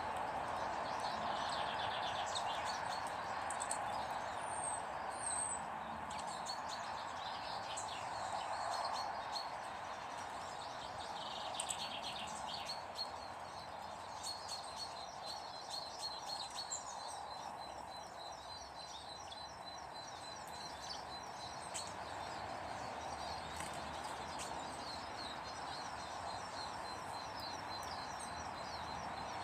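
Garden birds chirping and twittering over a steady background rush. About halfway through, a rapid run of thin, high repeated notes starts and carries on almost to the end.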